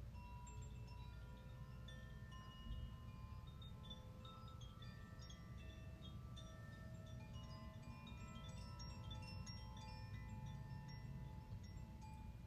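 Wind chimes ringing softly, many overlapping bell-like notes at scattered pitches sounding and fading over a faint low hum.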